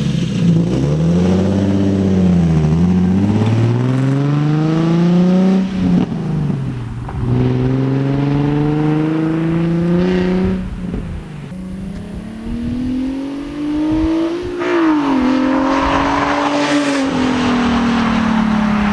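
Infiniti G37's 3.7-litre V6 running through a muffler-deleted exhaust, pulling up through the gears: the engine note climbs, drops at a shift about six seconds in and again about ten and a half seconds in, climbs once more, then eases off and falls away near the end. The open exhaust gives a raspy, rowdy tone.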